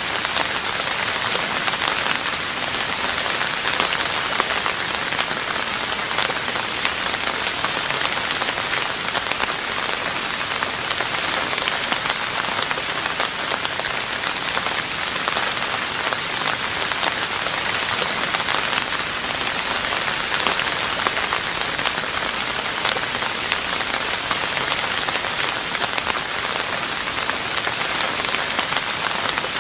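Steady rain falling on a roof: a dense, even patter of many small drops that keeps the same level throughout.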